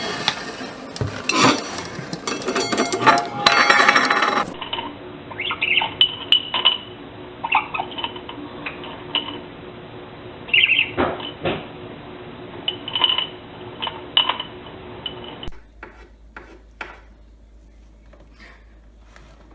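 Clinking of glass and dishes, followed by a pet parrot's short high chirps and whistles, with scattered light clicks and taps.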